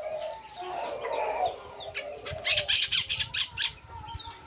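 A pet bird calling: a few faint chirps, then a burst of four or five loud, harsh squawks about halfway through.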